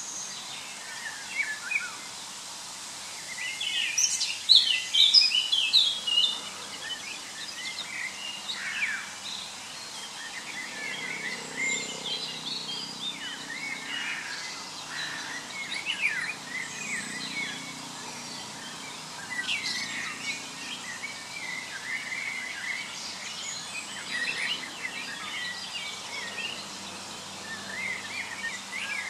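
Several birds chirping and singing over a steady background hiss, with the busiest, loudest stretch of song about four to six seconds in.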